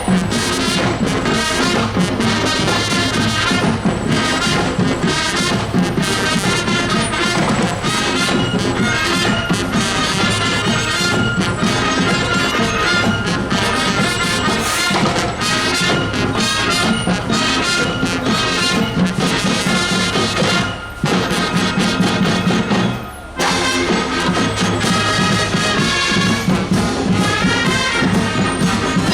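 Marching show band playing a brass-led tune with trumpets, trombones and drums, with two short breaks in the music about three quarters of the way through.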